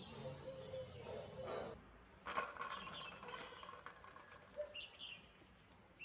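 Small birds giving short, high chirps a few times, with a single sharp click about two seconds in.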